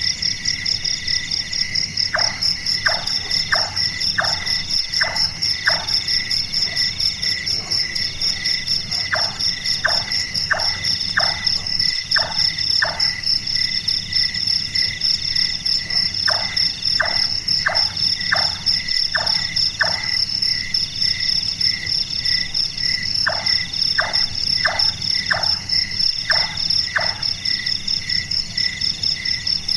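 Large-tailed nightjar calling: four series of five or six short, evenly spaced notes, like a carpenter hammering, with a pause of several seconds between series. A steady, pulsing chorus of crickets runs underneath.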